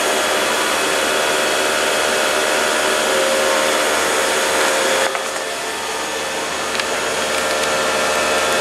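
A steady, loud blower-like whir with several steady tones, dipping briefly about five seconds in and then coming back.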